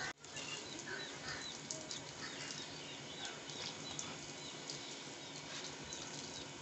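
Small birds chirping repeatedly in short, quick calls over a steady background hiss.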